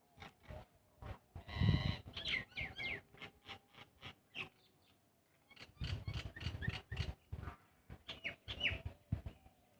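Close-up eating sounds: wet chewing and lip smacking on a mouthful of rice mixed with fried neem leaves, with sticky clicks and short squeaky smacks. They come in two spells with a brief pause near the middle.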